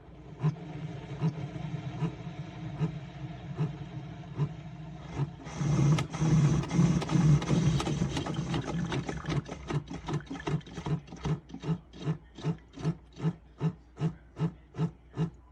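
Single-serve coffee maker brewing: its water pump runs with a steady hum, gets louder and hissier about five seconds in, then settles into even pulsing, about three beats a second, as the brew finishes.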